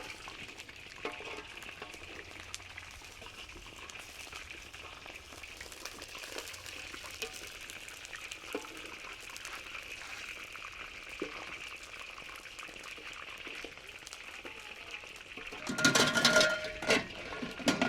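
Food cooking in a pot, a steady sizzling, bubbling hiss with faint scattered crackles. Near the end a much louder, brief sound with a held tone cuts in.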